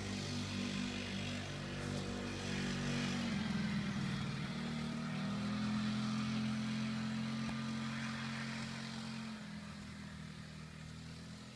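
A motor engine runs at a steady pitch, shifts to a new steady note about four seconds in, and fades toward the end.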